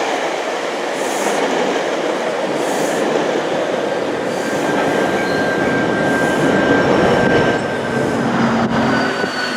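GO Transit commuter train, an F59PH diesel locomotive with Bombardier bi-level cars, rolling past with a steady loud rumble of wheels on rail. A thin high wheel squeal comes in about four seconds in and holds.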